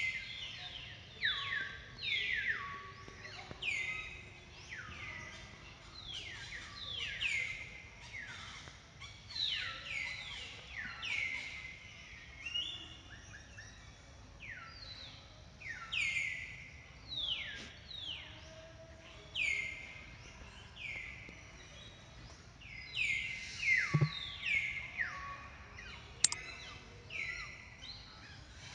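Birds calling: many overlapping high chirps, each sliding quickly down in pitch to a short held note, repeating every second or so. A single knock sounds near the end.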